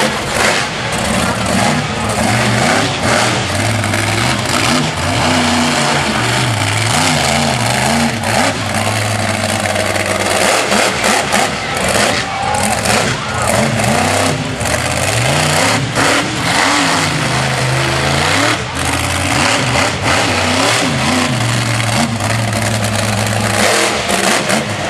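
Monster truck engine revving hard again and again, its pitch climbing and dropping, loud throughout.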